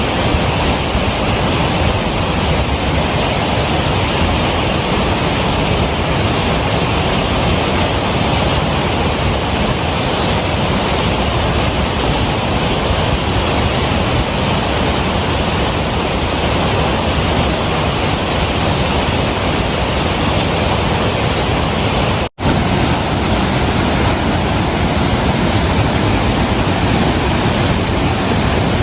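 Steady heavy rain, an even rushing hiss that breaks off for an instant about 22 seconds in.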